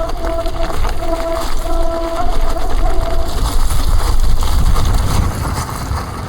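Mountain e-bike on a steep descent: wind buffeting the microphone and rumble from the rough trail, louder around the middle. A pitched disc-brake howl comes and goes under hard braking and stops a little over three seconds in.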